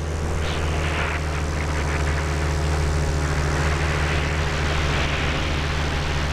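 Light propeller aircraft's engine running steadily, a constant low drone with rushing air noise over it.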